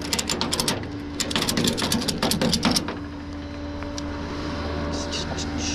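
Rapid clicking and rattling for about the first three seconds, then it stops, over the steady hum and low rumble of an idling vehicle engine.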